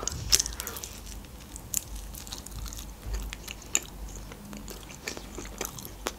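A person chewing and biting pizza, with irregular soft crunches and small mouth clicks.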